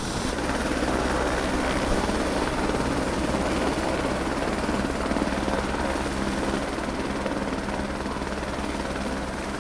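Steady engine drone with a fast low throb, starting abruptly and holding at an even level throughout.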